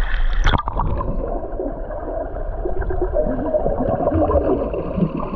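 A splash about half a second in, then muffled underwater bubbling and gurgling, heard from a camera under the water in a spring.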